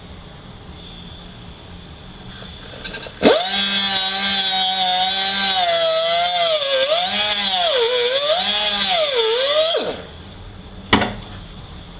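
A high-speed power tool grinding to widen a notch in a transmission part. About three seconds in it spins up to a loud whine whose pitch sags and recovers as it is pressed into the cut, then it winds down near the end, followed by a single click.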